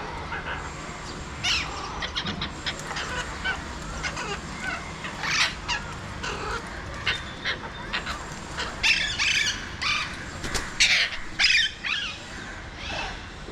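Alexandrine parakeets calling in a long string of short squawks. The calls come thicker and louder about nine to twelve seconds in.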